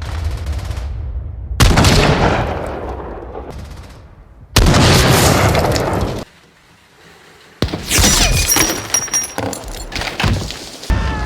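Explosions on a war-film soundtrack: a sudden blast about one and a half seconds in that dies away over a few seconds, a second blast about four and a half seconds in that cuts off abruptly, then after a brief lull another burst of blasts and crashing debris.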